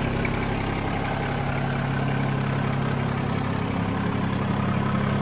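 John Deere 2305 compact tractor's three-cylinder diesel engine idling steadily, running evenly with no knocks or ticks.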